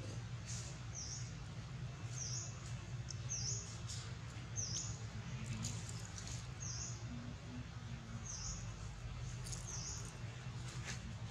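A bird giving a short, high chirp over and over, about once a second, over a steady low hum.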